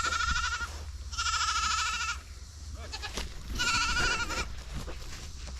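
Goat bleating: three long, wavering calls, the last one about three and a half seconds in.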